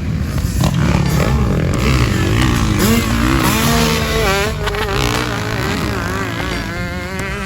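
Motocross bike engines revving, the pitch repeatedly rising and falling.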